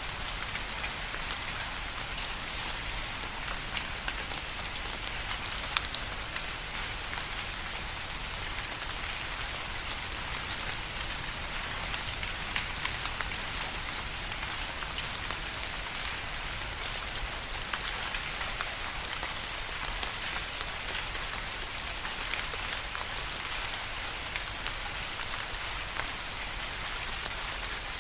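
Steady rain falling, an even hiss with the patter of individual drops striking a surface.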